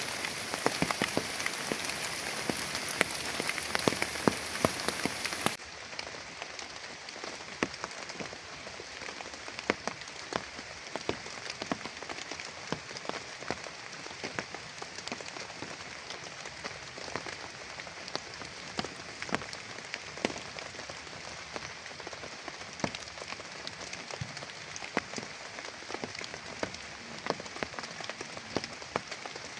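Steady heavy rain falling, with many separate drops striking a nearby surface. About five seconds in it cuts to a quieter, duller stretch of the same rain.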